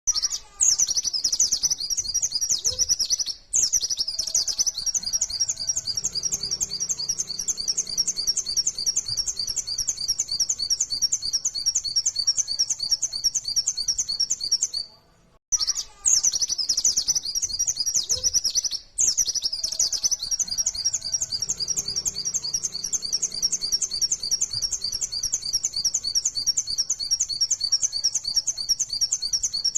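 White-eye (pleci) singing a long, fast, unbroken run of high chirps in 'nembak' style. The song comes in two bouts of about fifteen seconds, the second a repeat of the first, with a brief break about halfway through.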